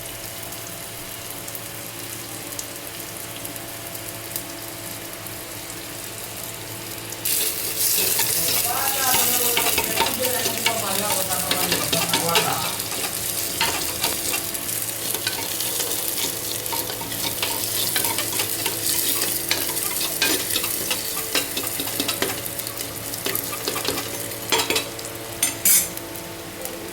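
Food frying in a pan over a steady hum. About seven seconds in, a loud sizzle starts suddenly and keeps going, with the clicks and scrapes of a spatula stirring the pan.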